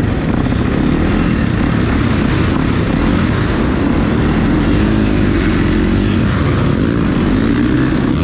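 Dirt bike engines running on a track, their pitch rising and falling as they rev, under a loud, steady rushing noise.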